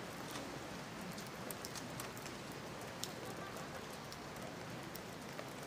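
Steady rain: a soft, even hiss with scattered sharp ticks of drops landing.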